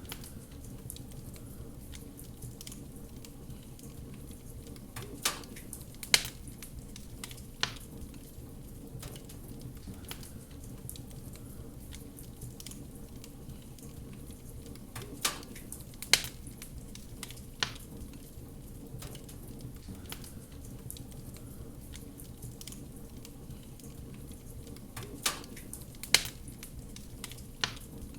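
Wood fire burning in a fireplace: a steady low rush of flames with sharp crackling pops, coming in three clusters of about three pops roughly ten seconds apart.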